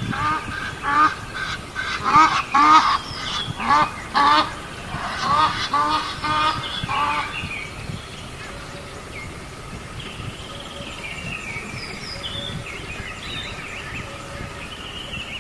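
Geese honking in a rapid series of calls for about seven seconds, then fading to fainter scattered bird calls and chirps.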